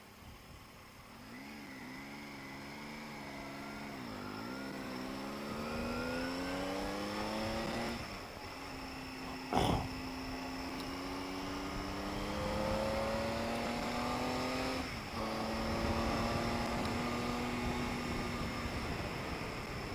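Triumph Tiger 800 XRT's three-cylinder engine accelerating, its revs rising, then dropping with a gear change about eight seconds in and again near fifteen seconds. There is one sharp click in between.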